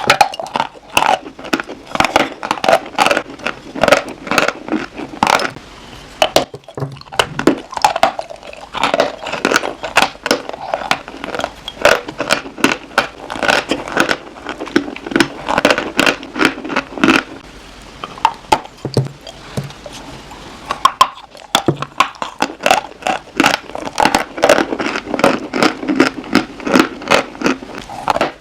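Chalk crunching close to the microphone: a dense, rapid run of crisp crunches and crackles, easing off briefly twice before picking up again.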